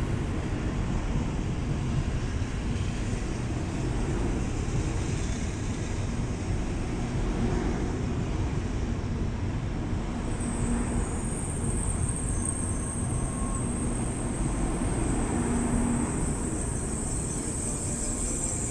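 Tokaido Shinkansen train rolling along the platform at low speed, a steady rumble of wheels and running gear. A thin high whine joins in about halfway through.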